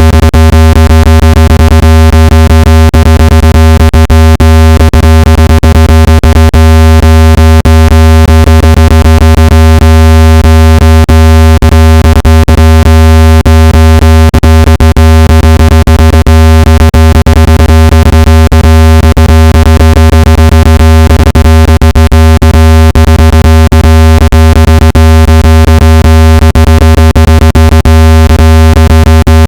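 Synthesized speaker-cleaning tone played at full volume: a deep, steady buzzing tone with many overtones, broken by frequent clicks. It is meant to vibrate dust and moisture out of a phone speaker.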